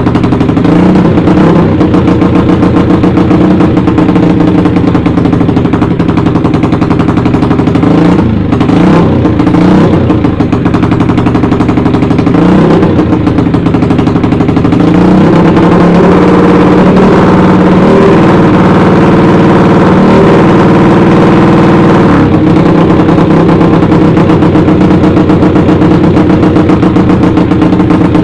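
Bored-up Yamaha Jupiter single-cylinder four-stroke running through a loud aftermarket CLD Monster exhaust while riding, with a rapid, staccato exhaust note. The pitch drops and climbs again several times in the first half, as at gear changes, then holds steady at high revs from about halfway on.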